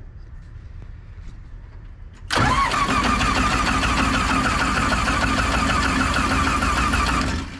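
An old combine's engine being cranked over by its starter motor for about five seconds, with a rapid even pulsing, then the starter stops suddenly. The engine does not catch: it is reluctant to start and will get ether next.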